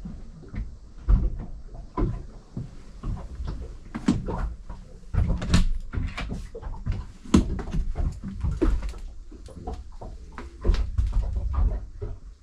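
Irregular knocks, clunks and creaks from a boat's deck fittings being handled, over low rumbling noise.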